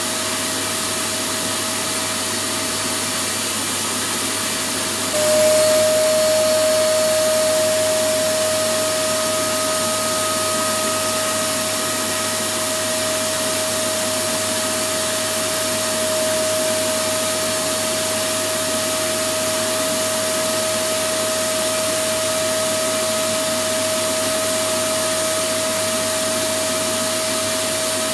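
Electric vacuum cleaner running steadily: an even rushing noise with a constant motor whine, which steps up in loudness about five seconds in.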